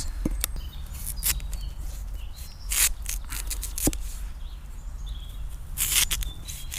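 Knife cutting raw potatoes into smaller pieces: a few separate sharp slicing cuts and knocks at uneven intervals, two of them longer and louder, with faint bird chirps between them.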